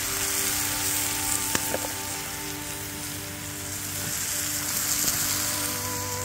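Moqueca fish stew (onion, tomato and fish in oil) sizzling steadily in the pan, with a couple of faint clicks about one and a half seconds in.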